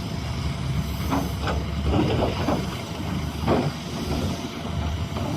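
Doosan DX390 excavator's diesel engine running steadily under load, with several short scraping knocks of rock about a second in and again after three seconds.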